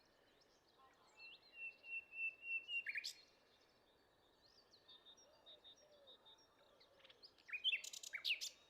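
Wild songbirds singing and calling. A steady high note is held for over a second and ends in a sharp chirp, faint calls follow, and near the end comes a quick run of loud falling chirps.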